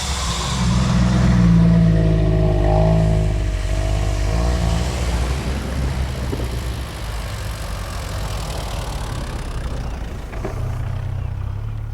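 Off-road 4x4's engine revving under load, its pitch rising and wavering and loudest a second or two in, then easing back to a steadier run.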